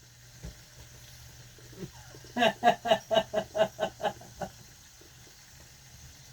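A person laughing: a run of about nine short, evenly spaced "ha" pulses lasting around two seconds, starting a little past two seconds in.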